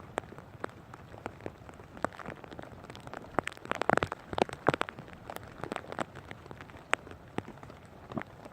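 Rain falling, with irregular sharp drip taps over a steady hiss and a denser run of louder taps and crackles about four seconds in.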